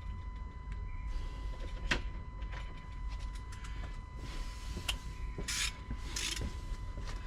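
Hand ratchet undoing small 10 mm bolts on car body trim: scattered clicks and knocks, with two short runs of rapid clicking a little past halfway.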